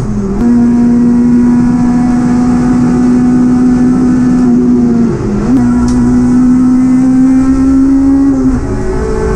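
Honda Civic EP3 Type R race car's 2.0-litre four-cylinder engine running hard at high revs, heard from inside the cabin. The note is high and steady, and the revs dip and recover briefly three times: near the start, about five seconds in and near the end.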